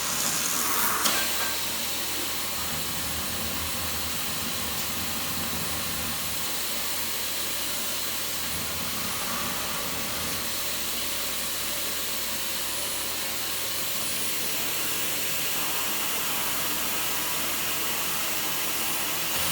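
Vacuum cleaner running with a steady rushing hiss of suction, with a short louder rush about a second in.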